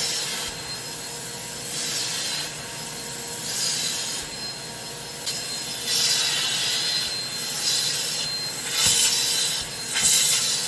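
Repeated harsh rubbing or scrubbing strokes, a scratchy swish every second or two, with the louder strokes near the end.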